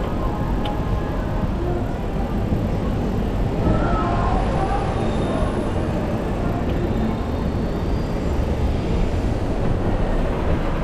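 Steady city road traffic noise heard from a bicycle moving through traffic, with a constant low rumble and no single event standing out.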